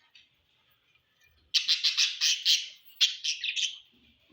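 Pet parrots calling: two quick runs of sharp, rapid calls over faint steady chatter.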